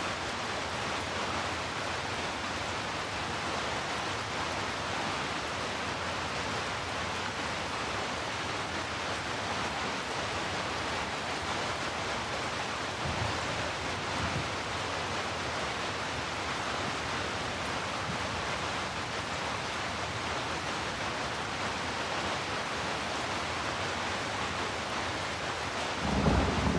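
Heavy rain falling in a steady, dense hiss. A brief low swell comes about halfway through, and a loud deep rumble sets in just before the end.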